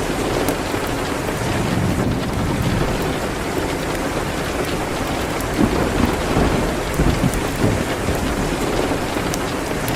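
Steady rain beating on a window, with a low rumble that swells about halfway through. Sharp crackles from a wood fire in a fireplace are scattered throughout.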